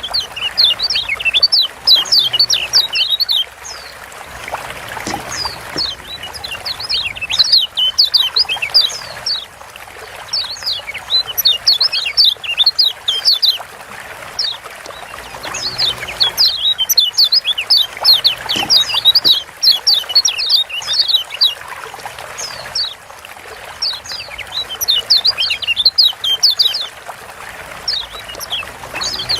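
Lombok yellow white-eye (kecial kuning) giving a 'ciak' call: rapid runs of sharp, high, downward-slurred chirps in bursts of a few seconds, repeated with short pauses. The recording is used as a lure to get other kecial singing. A steady hiss lies underneath.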